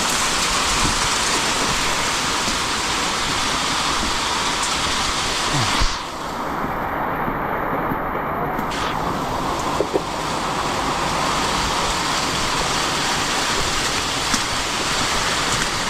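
Steady heavy rain and wind during a hurricane, a loud even hiss. About six seconds in, the brighter upper part of the hiss drops away for a few seconds, then comes back.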